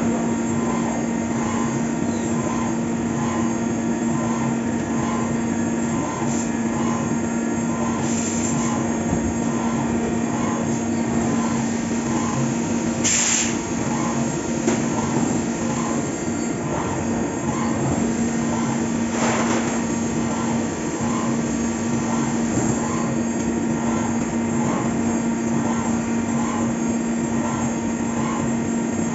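Fagima Jazz M 5-axis CNC milling machine cutting a part: a steady running hum with a held tone and a faint regular pulse, broken by a few short hissing bursts.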